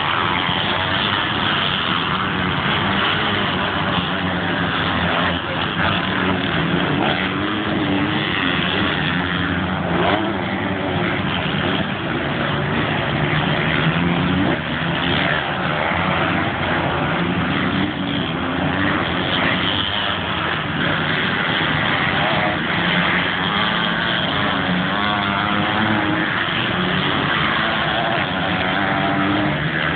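Motocross dirt bike engines revving hard, rising and falling in pitch over and over as the bikes accelerate and back off around the track.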